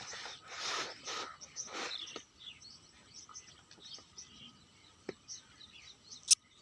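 Outdoor ambience of birds chirping faintly and intermittently, with a few short rustling noises in the first two seconds and a sharp click near the end.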